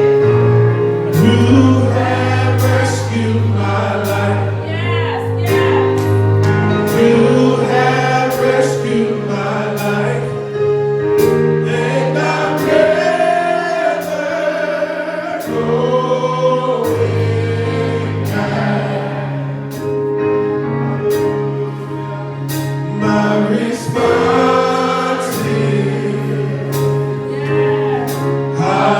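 Gospel music: a choir singing over sustained bass notes, with sharp hits keeping a steady beat.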